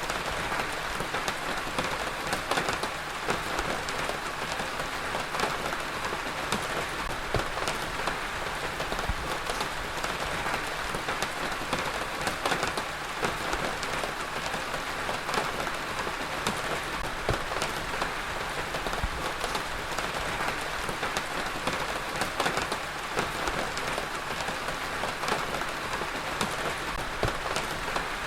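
Heavy rain falling steadily, a dense hiss full of close, individual drop impacts.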